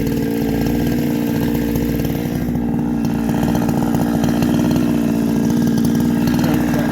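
Two-stroke chainsaw with a shotgun-style pipe muffler, running at a steady, unchanging speed.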